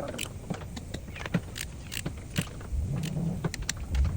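Irregular clicks and knocks of hand tools and parts being handled during engine work, over a steady low rumble.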